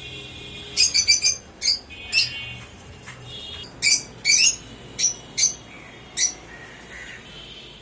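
Pet birds calling: a string of about ten sharp, high squawks and chirps, several in quick clusters, over softer continuous chatter.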